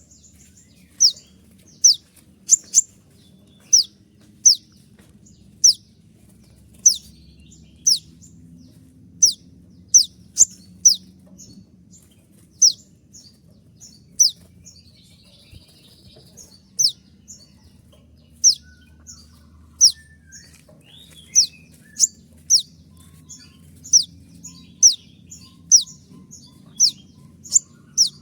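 Kolibri ninja (konin), a small sunbird, calling with sharp 'shot' notes. Each note is a brief high chip sliding downward, repeated irregularly about once or twice a second.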